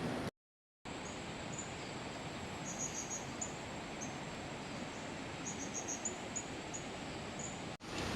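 Tropical forest ambience: a steady high-pitched insect drone with short high chirps, singly and in quick runs of three or four, over an even hiss. It drops out to silence for half a second near the start.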